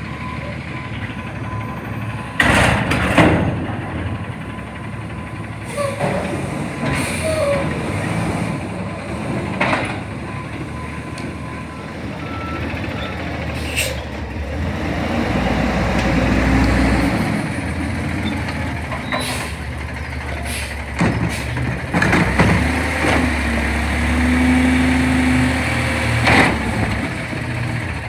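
CNG front-loader garbage truck working: the engine runs and revs up twice, with air-brake hisses and several sharp metal bangs and clanks.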